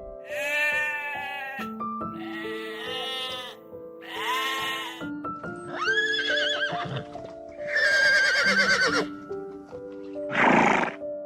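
Livestock bleating: about six separate wavering calls of a second or so each, the last one harsher, over gentle background music with held notes.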